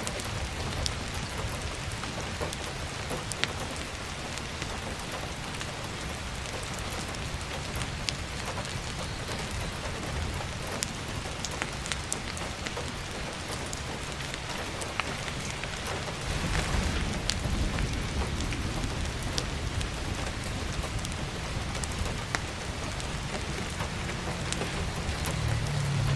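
Heavy rain falling steadily, with scattered sharp crackles of burning firewood. A low rumble swells up about two-thirds of the way through and again at the end.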